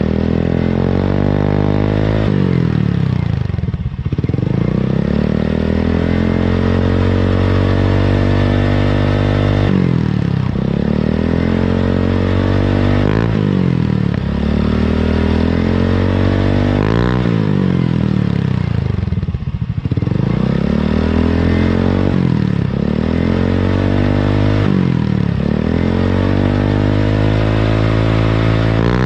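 Automatic scooter engine revved through an aftermarket CMS-copy 'adem' (quiet) exhaust, the revs rising and falling over and over, about a dozen times.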